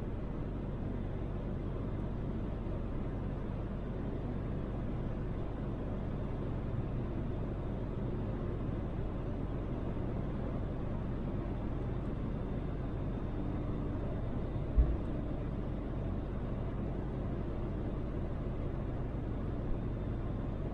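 Toyota Land Cruiser 80 driving at a steady speed, heard inside the cabin: a constant low engine drone with road noise. A single low thump comes about 15 seconds in.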